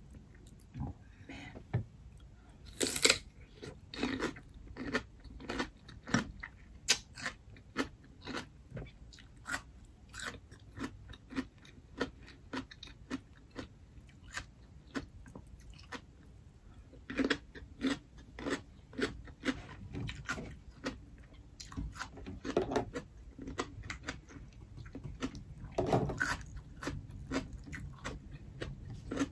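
Crunching and chewing of raw red radish dipped in seafood sauce: a long irregular run of short crisp crunches, with a louder bite now and then, near 3, 17, 23 and 26 seconds in.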